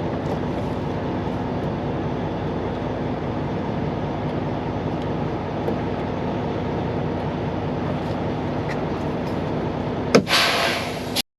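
Semi truck's diesel engine idling steadily. About ten seconds in, a sharp knock followed by about a second of hissing, then the sound cuts off abruptly.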